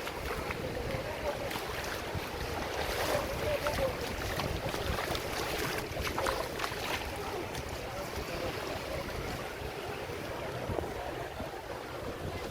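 Wind buffeting the microphone over the steady wash of sea water, as heard from a boat at sea.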